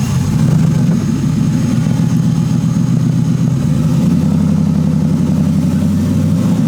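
Twin-turbo Ford 6.2 V8 idling steadily just after a cold start.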